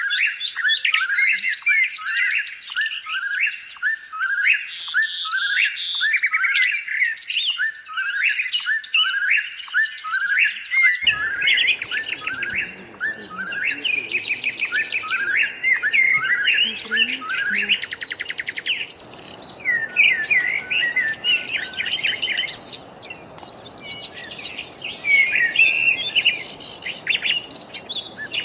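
Many small birds chirping and calling at once: a dense chorus of short, high, overlapping calls. A steady low background noise comes in about a third of the way through.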